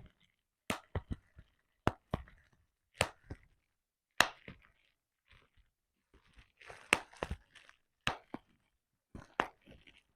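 Bubble wrap being popped by hand: sharp single pops at irregular intervals, some in quick pairs, with the plastic crinkling between them.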